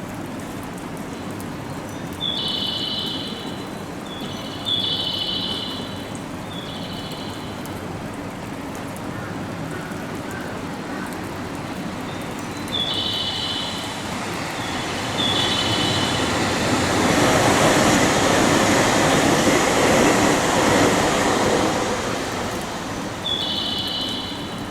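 A JR West Kyoto Line electric train runs through the station: its rumble builds, peaks and fades over about ten seconds in the second half. Short high tones repeat in groups on and off throughout.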